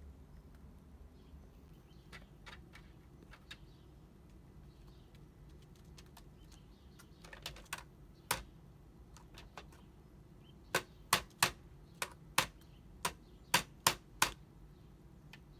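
A hooded crow's beak pecking and knocking at a dog activity puzzle box: scattered light taps at first, then a quick run of about nine sharp, loud knocks in the last few seconds.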